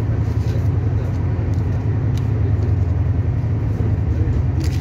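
Steady low rumble of a Shatabdi Express train running at speed, heard from inside the passenger coach, with a few faint clicks over it.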